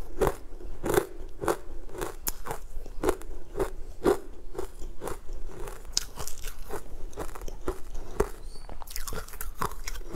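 Close-miked chewing of crumbly, chalky green chunks: a steady run of dry crunches, about two a second.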